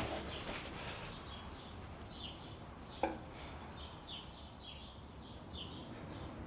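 Faint bird chirping, quick high chirps repeating a few times a second, with a single sharp click about three seconds in.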